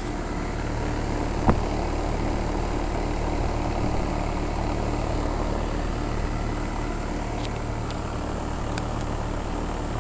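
Outdoor central air-conditioner condensing units running: a steady low compressor hum under the even rush of the condenser fans. A single sharp knock comes about a second and a half in.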